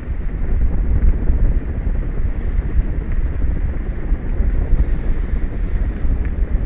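Wind buffeting the microphone: a loud, gusty low rumble with a noisy hiss above it.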